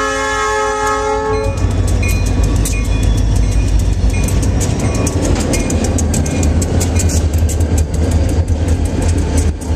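Diesel locomotive air horn sounding a chord, cutting off about a second and a half in. It leaves the loud, low rumble of EMD SD40 locomotives passing close, running light, with rapid clicking of wheels over the rail joints.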